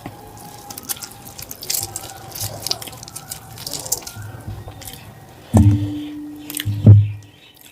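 Close-up wet eating sounds of rice and mutton curry being eaten: many small smacking, squishy clicks. Near the end come two louder low thuds a little over a second apart.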